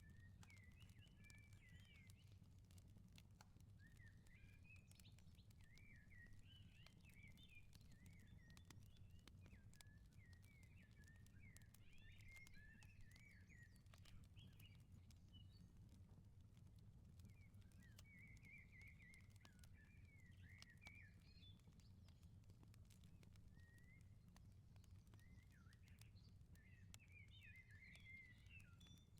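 Faint outdoor ambience: small songbirds twittering in quick chirping clusters, over scattered small pops of a wood fire crackling and a steady low rumble.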